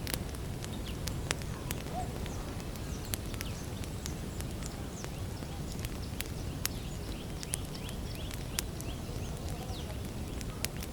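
Wood campfire crackling: irregular sharp pops and snaps, about a dozen, over a steady low rumble.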